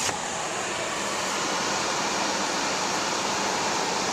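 Blizzard wind blowing steadily, an even rushing hiss with no gusts or breaks.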